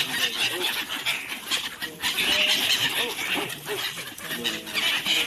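A crowd of birds chirping and squawking together in a dense, continuous chatter, loudest about two to three seconds in.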